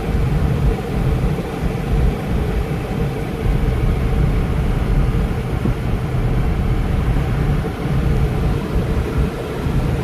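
Thunderstorm: a steady low rumble with a faint hum held underneath, without sharp cracks.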